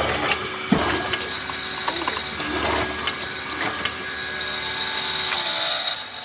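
A power tool running on wood, with a steady high whine and scattered knocks and clicks; its lower tone drops away near the end.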